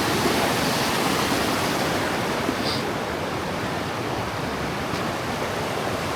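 Rushing water of a clear mountain river running over rocks, a steady, unbroken hiss.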